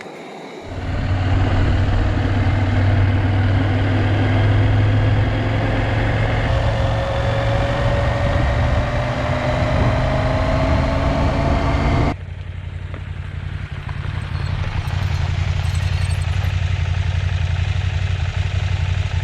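KTM 790 Adventure motorcycle being ridden, its engine a steady low drone with a whine that rises slowly as it gathers speed. About twelve seconds in, the sound cuts abruptly to a quieter stretch of riding.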